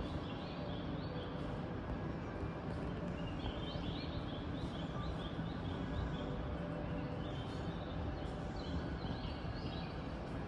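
Small birds chirping in short repeated bursts over a steady low rumble of outdoor background noise.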